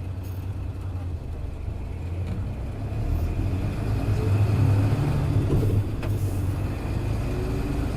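Hino Blue Ribbon KC-HU2MMCA city bus running under way, its diesel engine pulling harder from about halfway through. The engine sound dips briefly about six seconds in, then builds again.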